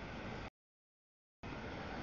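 Steady noise of a double-stack freight train rolling past, broken by abrupt dropouts into dead silence. It is heard for about the first half second, cuts out for about a second, then returns.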